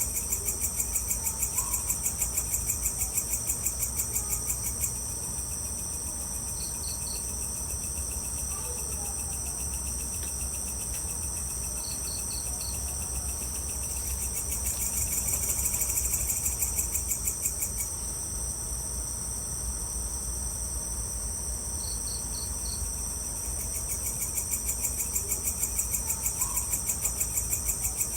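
Chorus of night insects such as crickets: a steady high-pitched buzz, with a rapid pulsing chirp that comes and goes in spells of several seconds. A brief three-note chirp sounds three times.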